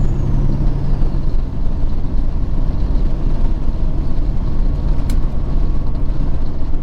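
Peterbilt 379 semi truck driving on the highway, heard from inside the cab: steady engine and road noise. A low engine hum fades out within the first second.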